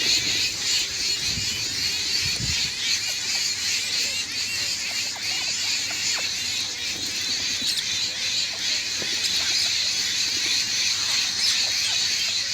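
A dense, continuous chorus of high-pitched chattering bird calls, with individual calls standing out now and then.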